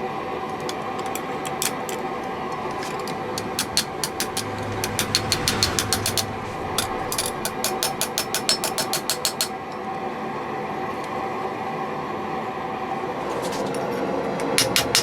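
Ball bearing steel being hammer-forged into a chisel blade: runs of quick, evenly spaced hammer blows on steel, about five a second, broken by short pauses, over a steady hum.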